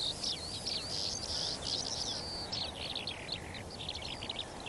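A songbird singing a rapid, varied song of high chirps and whistles without a break, over a faint steady hiss of open-air background.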